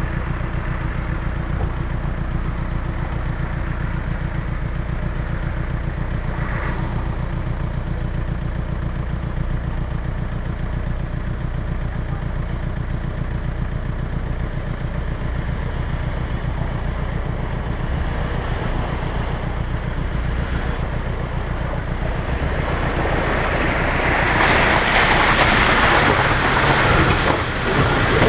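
Land Rover Discovery 1 engine idling steadily, heard close under the bonnet. About 23 seconds in, a louder rushing noise rises over it.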